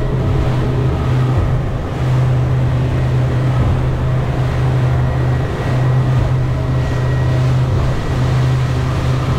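A boat's engine running steadily with a strong low hum, under water and hull noise.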